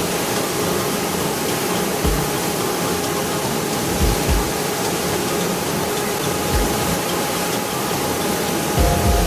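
Steady, loud whooshing noise of machinery running, with a few dull low thumps scattered through it.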